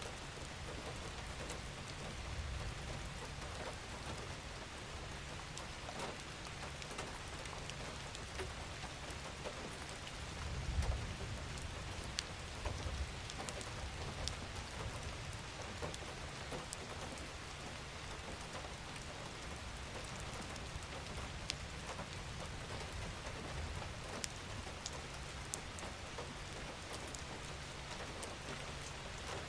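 Steady gentle rain falling on a surface, with scattered individual drops and a low rumble that swells briefly about ten seconds in.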